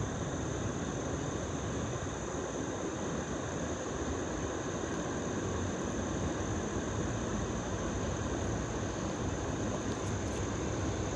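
Steady low rumble and hiss of distant diesel freight locomotives, even throughout with no sharp events.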